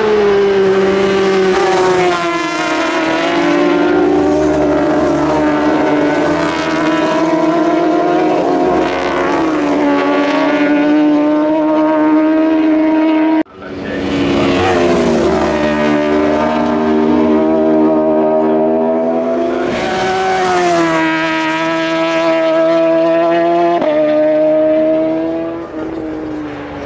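Superbike racing motorcycle engine running hard at high revs, its pitch holding, then stepping and sliding with gear changes and throttle. The sound breaks off abruptly about halfway through and starts again straight away, climbing in pitch.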